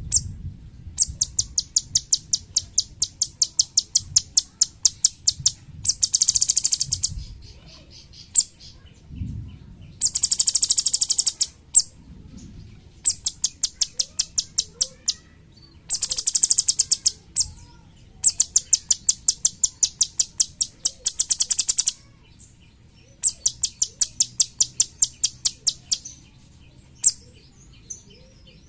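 Cucak cungkok songbird calling in repeated runs of rapid, sharp, high notes, about ten a second, broken by short dense trills and brief pauses.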